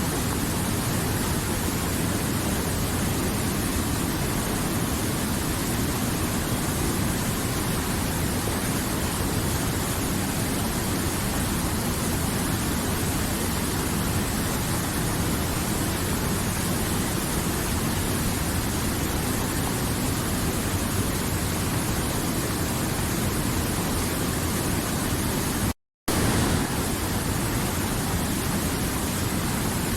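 River water flowing in a steady, even rush. The sound cuts out for a split second near the end, then resumes unchanged.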